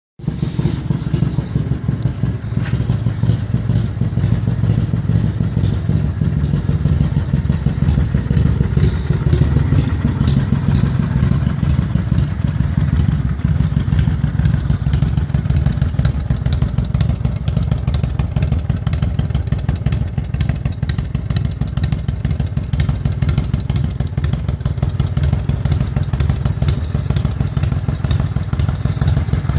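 Kawasaki Drifter motorcycle's V-twin engine running steadily, with one brief fall in pitch about nine seconds in.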